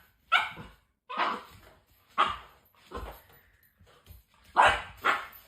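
A dog barking, about six short barks at uneven intervals, with a quick pair near the end.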